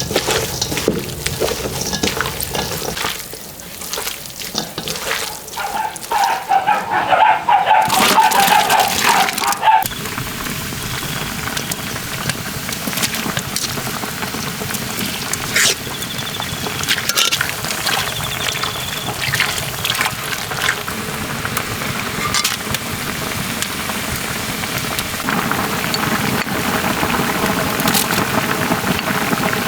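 Yukgaejang (spicy beef stew) bubbling in a cast-iron cauldron, with liquid sloshing and being stirred or ladled and a few clicks of utensils. A louder, busier splashing stretch comes about six to ten seconds in.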